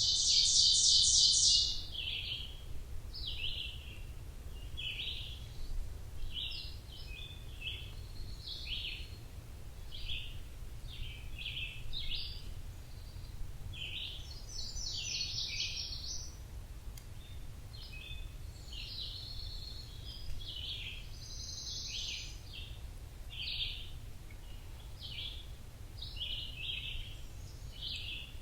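Forest songbirds chirping and calling: many short high chirps throughout, with a loud rapid trill in the first second and a half and more trills about halfway and two-thirds through. A steady low rumble lies beneath.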